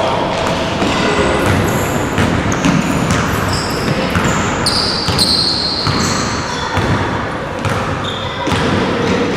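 Basketball game in a large hall: ball bouncing, short high squeaks of sneakers on the court and the echoing hubbub of players.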